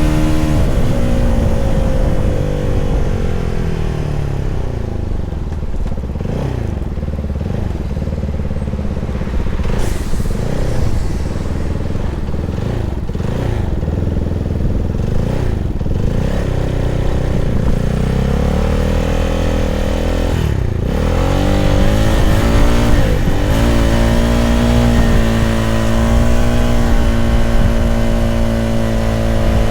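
CFMoto 300SR's single-cylinder engine running: the revs fall over the first few seconds, rise and fall repeatedly through the middle, drop sharply about two-thirds of the way through, then climb and hold steady near the end.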